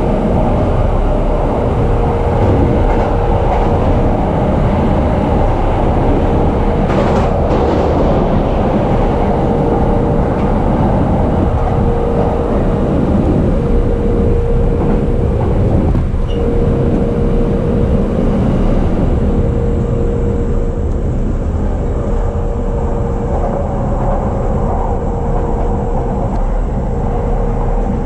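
Inside a JR East E233-series electric train under way: a steady rumble of the wheels on the rails, with a constant hum.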